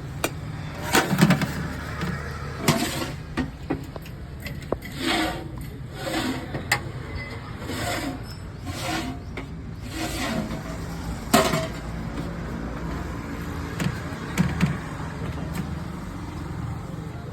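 Street traffic running under a string of scattered sharp clinks and knocks, the loudest a little past the middle.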